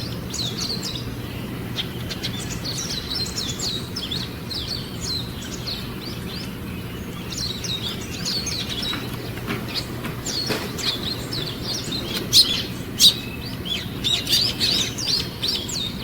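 Small songbirds chirping: a busy run of short, high chirps that grows denser in the second half, with two louder sharp calls a little after the middle, over a steady low background rumble.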